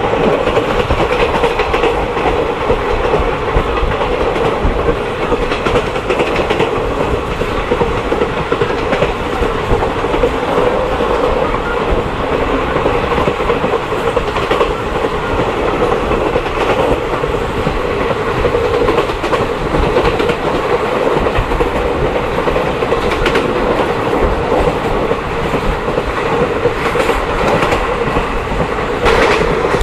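Moving passenger train heard from aboard a coach: a steady, loud running noise of wheels on the track, with scattered clatter from the wheels.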